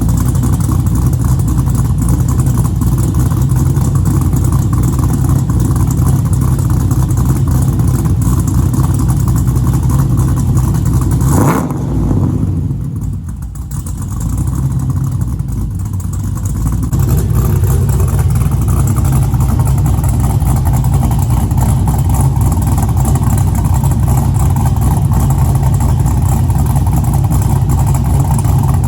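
LS1 V8 with an aftermarket 615/596 camshaft running through a Speed Engineering true dual exhaust, a steady deep exhaust note. About eleven seconds in there is a brief sharp sound, and then the exhaust is quieter and duller for a few seconds before it returns to its earlier level.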